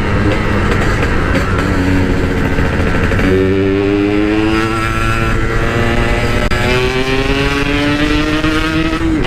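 Yamaha RX-King 135cc two-stroke single-cylinder motorcycle engine, fitted with an aftermarket Packing Power exhaust, pulling hard under acceleration. Its pitch climbs steadily, drops back at a gear change a little past the halfway point, then climbs again.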